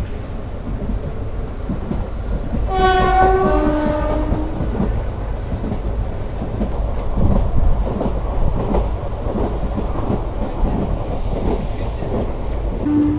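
Passenger train running at speed, heard from beside the coach: steady wheel rumble with clickety-clack over rail joints. A train horn sounds about three seconds in, a higher note stepping down to a lower one for about a second and a half.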